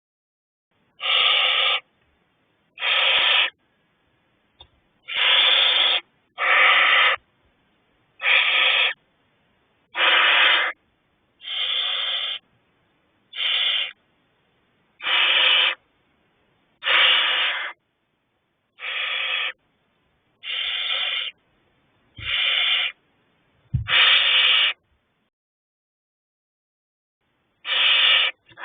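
Owlets in a nest box giving repeated rasping hiss calls, one harsh hiss about every one and a half to two seconds, with a short pause near the end. A couple of faint low thumps come a little after two-thirds of the way through.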